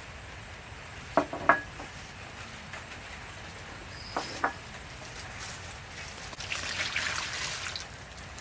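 Cooking sounds: two pairs of sharp knocks, one about a second in and one about four seconds in, then a couple of seconds of hissing near the end, over a steady low background.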